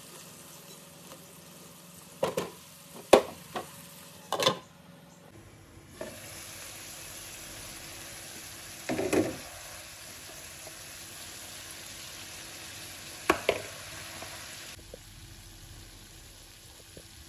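Minced meat and chopped vegetables sizzling in a stone-coated nonstick wok as they are stirred with a silicone spatula, with a few short, sharp knocks against the pan, a cluster of them in the first few seconds and single ones near the middle and later on.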